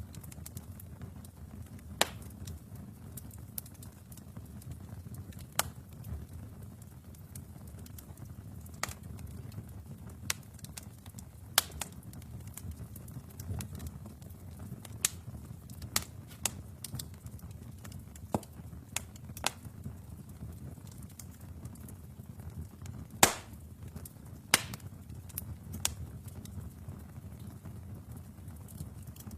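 Wood fire burning in a fireplace: a steady low rumble of flames with sharp crackles and pops at irregular intervals, the loudest about three-quarters of the way through.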